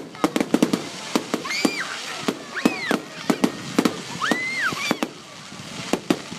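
Fireworks going off in quick succession: many sharp cracks and pops, mixed with three short whistles that rise and fall in pitch.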